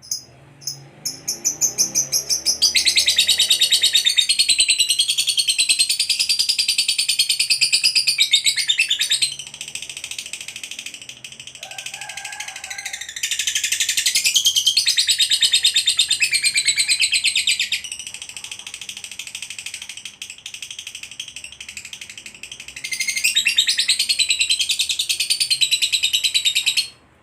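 Lovebird ngekek: long runs of rapid, high-pitched chattering trill, three runs of several seconds each with softer chirping between, after a few separate opening chirps. It cuts off abruptly near the end.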